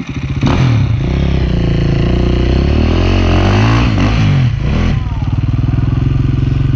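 Enduro dirt bike engine revving hard under load, its pitch rising and falling through the middle, briefly dropping, then held at steady high revs until it cuts back near the end.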